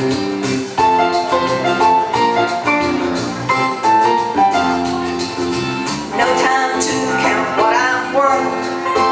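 Live band music: chords and melody over a steady beat, with a voice or bending instrument line joining near the end.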